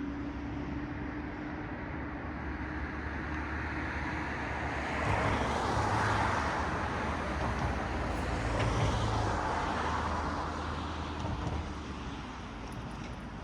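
Road traffic: cars passing, their tyre and engine noise swelling about five seconds in, peaking twice close together, and easing off near the end.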